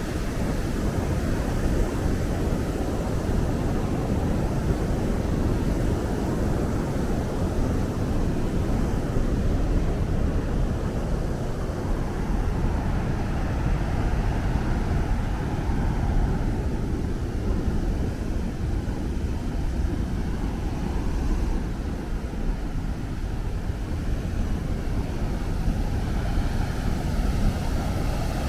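Steady roar of rushing water, even and unbroken, with most of its weight in the low range.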